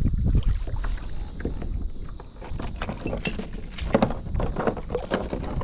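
A kayak on the water: irregular paddle splashes and knocks against the hull over a low rumble.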